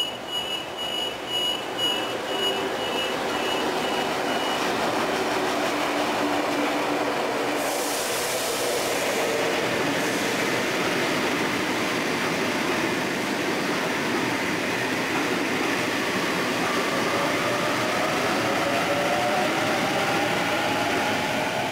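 Sydney double-deck electric suburban trains moving off and passing a platform: a steady rumble of the cars rolling on the rails. Repeated high beeps sound in the first few seconds, there is a burst of hiss about eight seconds in, and a rising electric whine starts near the end as a train picks up speed.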